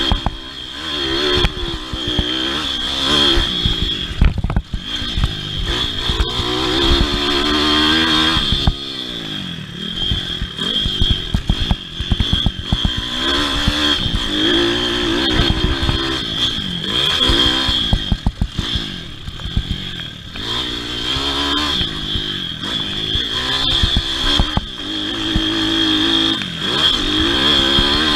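Pit bike motocross racing: small single-cylinder four-stroke engines revving up and down over and over as the throttle is opened and shut around the track.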